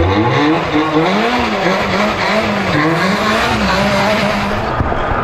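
Rally car engine at speed, its pitch rising and falling in quick repeated swoops as the revs climb and drop, then holding a steadier note near the end.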